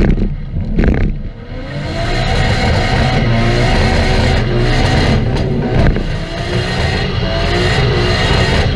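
RB-swapped Nissan Silvia's straight-six engine held at high revs while the rear tyres spin and smoke in a burnout. The revs dip briefly about a second in, climb back up, then hold high with small wavers.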